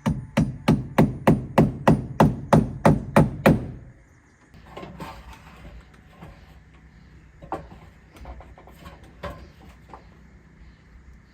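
A hammer driving a nail into wood with about a dozen quick, even blows, roughly three a second, then a few scattered lighter knocks.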